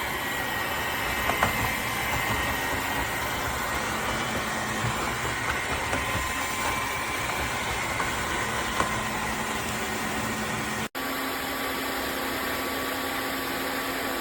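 Dreame H12 Pro wet-dry vacuum mop running its self-cleaning cycle in the dock: a steady motor and spinning-roller drone with a few light clicks. About eleven seconds in, the sound cuts out for an instant and resumes with a steadier hum.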